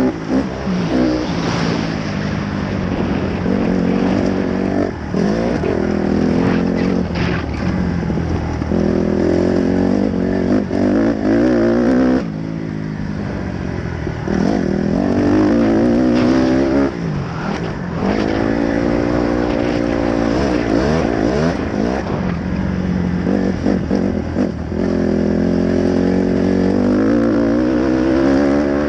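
Dirt bike engine revving under way, its pitch rising through the revs and dropping back again and again as the rider accelerates and eases off, with a brief let-off about twelve seconds in.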